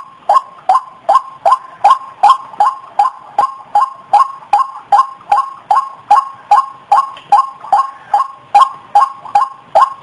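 White-breasted waterhen lure call: a fast, even series of the same short 'ruak' note, about two and a half notes a second, each one dipping slightly in pitch.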